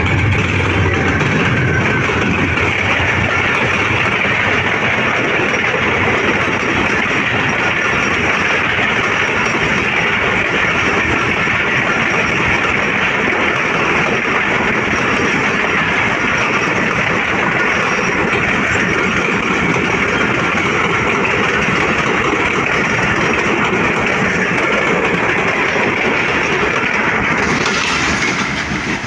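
Passenger express train running past at speed: a loud, steady rumble of wheels on rails, dropping off near the end as the train clears.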